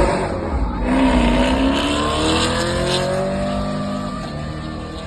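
Car engine accelerating hard, its pitch climbing steadily for about three seconds, then fading as the car pulls away.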